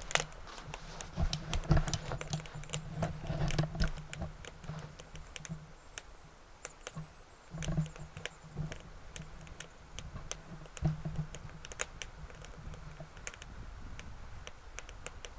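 Twig and stick fire crackling in the firebox of a BioLite Basecamp biomass stove, with irregular sharp pops and snaps.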